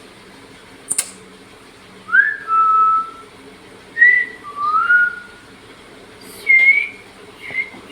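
Pet parrot whistling a string of short pitched notes, several of them sliding upward, with a brief sharp high chirp about a second in. A steady low hum sits underneath.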